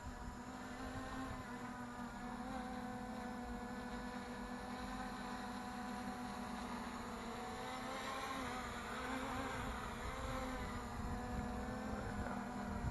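Propellers of a 3D-printed DJI Mavic clone quadcopter buzzing steadily in flight. The pitch swells up and back down for a few seconds past the middle.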